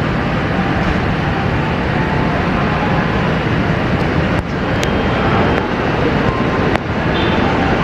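KA Taksaka passenger train pulling out of the station with a steady rumble of wheels and locomotive. Two brief sharp clicks come about four and a half and seven seconds in.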